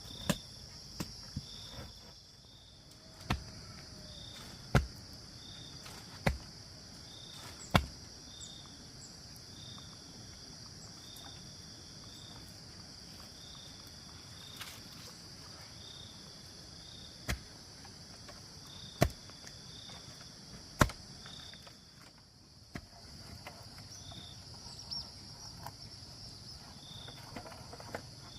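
Sharp strikes of a hand tool, spaced about a second and a half apart, in one run near the start and another past the middle. Under them runs a steady insect chorus with a short high chirp that repeats every second or so.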